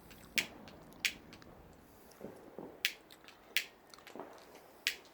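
Small fire crackling: sharp, irregular pops, about five of them spread unevenly.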